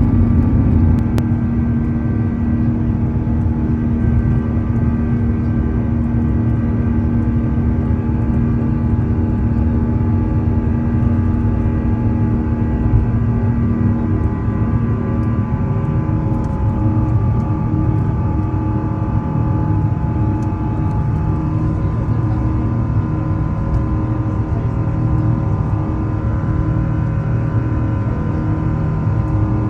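Airbus A350's Rolls-Royce Trent XWB jet engines running: a steady, loud low rumble with several steady whining tones above it, whose pitches shift slightly about halfway through and again near the end.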